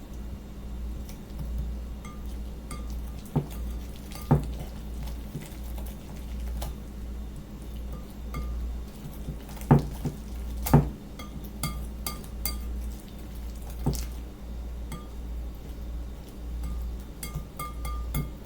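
Kitchen utensils and dishes clinking and knocking as food is handled at the counter: scattered sharp knocks, the loudest a few around ten seconds in, over a steady low hum.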